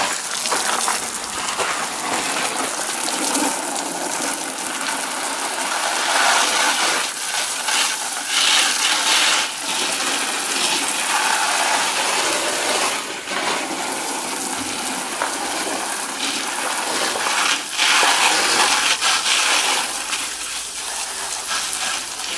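Water from a garden hose spraying and splashing over a car's engine bay, rinsing off degreaser. The rushing and splashing rises and falls as the stream moves, with a few brief breaks.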